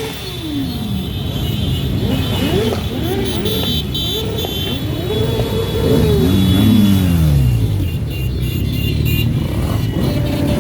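Motorcycles in a parade passing one after another, engines revving up and down with several overlapping pitches; from about six to eight seconds in, one engine's pitch falls steadily as it goes by.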